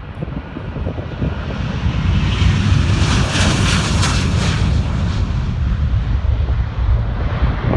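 Jet airliner passing close by, its engine roar swelling to a hissing peak about three to four seconds in, then settling into a steady low rumble.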